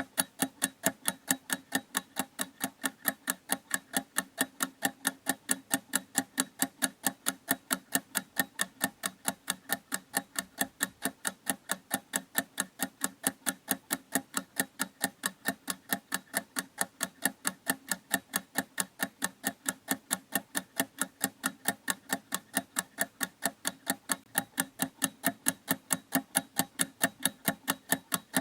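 Clock ticking steadily at about four ticks a second, each tick a sharp, even click.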